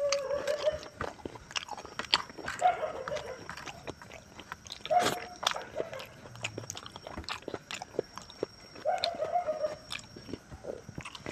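Wet chewing and lip-smacking of a man eating rice and pork curry with his fingers, with many sharp mouth clicks. Four short whining calls, each sliding slightly down in pitch, sound in the background: one at the start, one about two and a half seconds in, one about five seconds in and one about nine seconds in.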